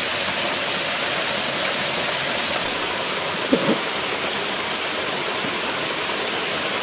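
Waterfall pouring over rock steps: a steady, dense rush of falling water. A brief thump comes about halfway through.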